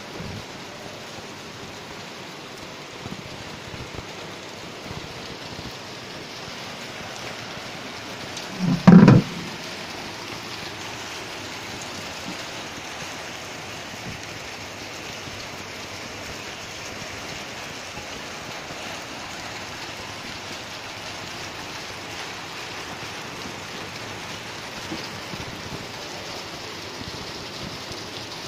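Steady rain falling, an even hiss, with one brief loud low thump about a third of the way through.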